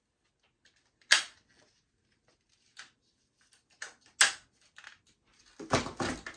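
Sharp plastic clicks and taps from handling a sewing machine's slide-on extension table and its fold-up legs. Two clicks about a second in and about four seconds in are louder than the rest. Near the end there is a close burst of knocking and handling noise.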